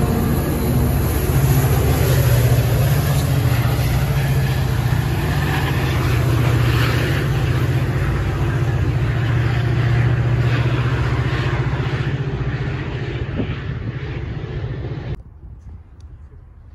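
A diesel train running past, a steady low engine drone under rail noise. It slowly fades and then cuts off suddenly near the end.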